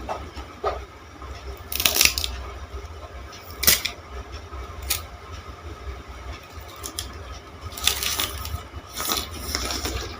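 Teeth biting into and chewing a raw green sugar cane stalk: a series of sharp, crisp cracking crunches at irregular intervals, the loudest about two seconds in and again near the end.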